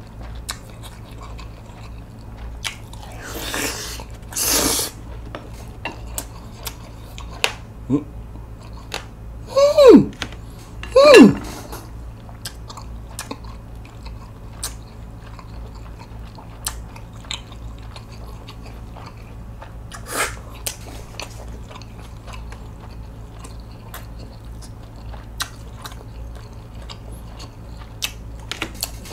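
Close-miked chewing of spicy buckwheat bibim-myeon noodles with whelk meat: wet smacks and small clicks throughout. Two breathy rushes come a few seconds in, and two short louder sounds falling in pitch come about ten and eleven seconds in.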